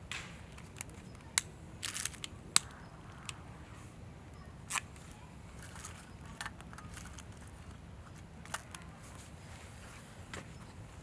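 Wood campfire crackling: irregular sharp pops and snaps, a few close together about two seconds in, over a low steady background.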